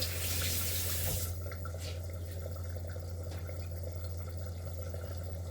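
Kitchen tap running into a sink, shut off about a second in, followed by a few faint clicks over a steady low hum.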